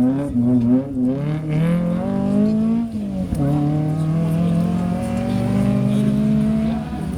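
Rally car engine accelerating hard through the gears. The pitch climbs with short wavers, drops at a gear change about three seconds in, then climbs steadily for several seconds.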